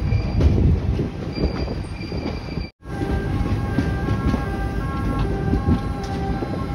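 Rumble and rattle of a passenger coach running at speed, loud enough that the passenger fears a fault in the coach, with a faint high whine. About three seconds in, the sound cuts off and a simple repeating tune of held tones comes in over the running noise.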